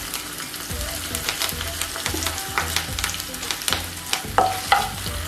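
Fresh curry leaves spluttering in hot oil with ginger garlic paste and green chilli while being stirred in the pan: a steady sizzle full of sharp pops and crackles. A few louder clicks with a short ring come about four and a half seconds in.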